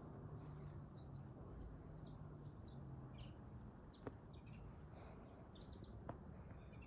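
Small birds chirping faintly, many short calls scattered throughout, over a low steady outdoor hum. Two sharp clicks, about four and six seconds in.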